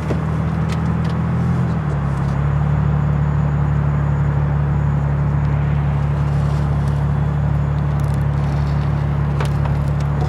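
Car engine running at low speed with a steady drone as the car creeps backward in reverse, its note shifting slightly about two seconds in. A few faint clicks over the top.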